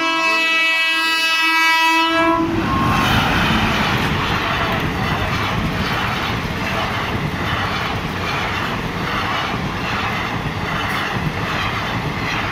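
Express passenger train's horn held in one steady blast for about two and a half seconds as it reaches the level crossing. The horn then gives way to the loud rush and rumble of coaches passing at speed close by, with a rhythmic clatter of wheels over the rail joints.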